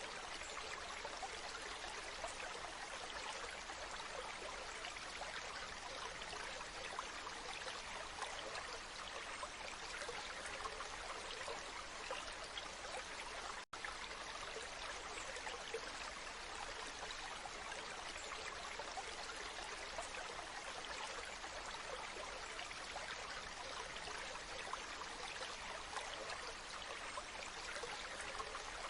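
Waterfall: a steady rush of falling water, spread across mid and high pitches, with fine splashing and trickling in it. The sound cuts out for a split second about halfway through.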